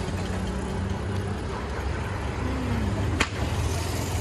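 Steady low engine hum with street noise, and a single sharp click about three seconds in.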